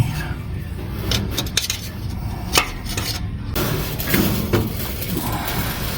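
Hand-held metal gasket scrapers scraping and clicking on the gasket surface of a Ford 8BA flathead V8, in short irregular strokes; the surface is still far from clean.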